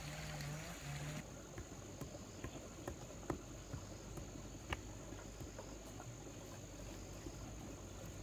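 Steady high-pitched insect chirring, with scattered faint clicks and ticks; a background hiss cuts off about a second in.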